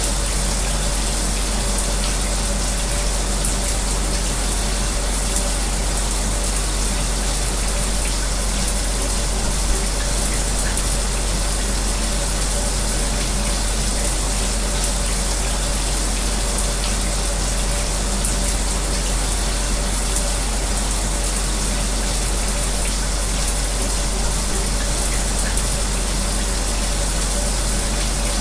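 Shower spray running with an electric fan's hum underneath: a steady hiss with a few low, even hum tones, unchanging throughout.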